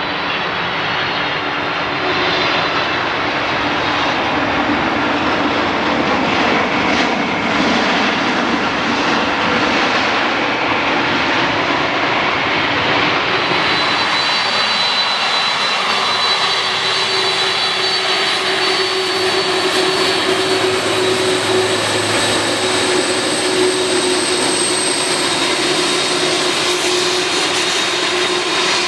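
Airliner jet engines running loud and steady as a plane comes in to land, with a thin high whine over a broad rush. The sound shifts about halfway through to a steadier whine with a low hum beneath it.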